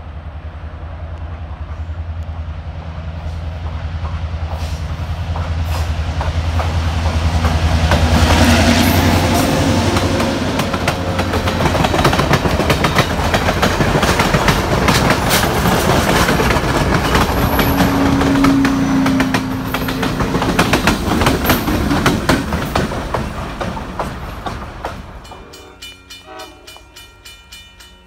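A diesel-hauled train passing close by: the locomotive's engine drone builds over the first several seconds, then the cars' wheels click over the rail joints for about fifteen seconds before fading. Near the end a grade-crossing warning bell rings in a steady rhythm.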